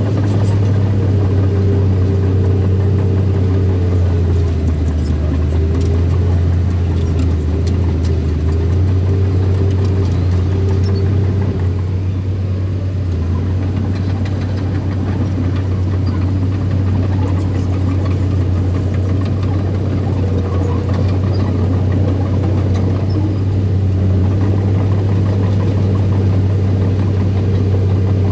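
Heavy diesel engine of earthmoving machinery running steadily with a deep, constant hum, its pitch shifting slightly at times.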